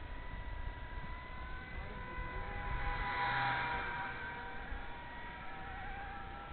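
Blade 230S electric RC helicopter with a three-bladed carbon-fibre rotor head in flight: a steady motor and gear whine over rotor noise, growing louder and fuller about halfway through as it comes close, then easing off.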